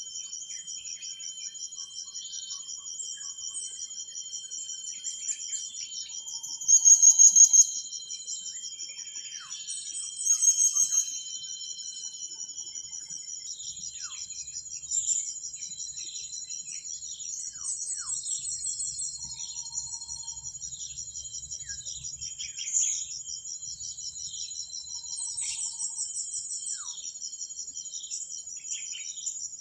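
Insects trilling steadily at a high pitch, with many short, high bird chirps scattered over it and two louder bursts about seven and ten seconds in.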